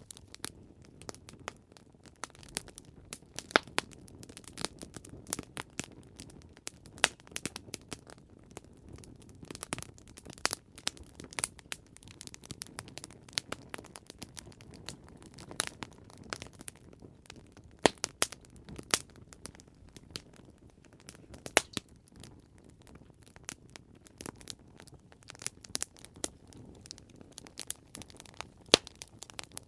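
Campfire crackling: wood burning with a steady low rumble, dotted with irregular sharp snaps and a few louder pops.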